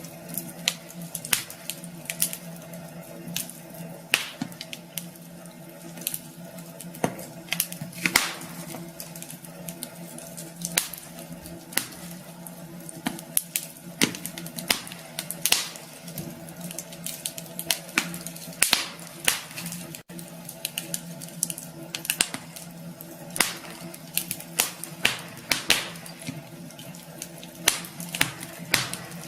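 Wood fire burning in a fireplace, crackling with frequent irregular sharp pops over a steady low hum, with one brief dropout about two-thirds of the way through.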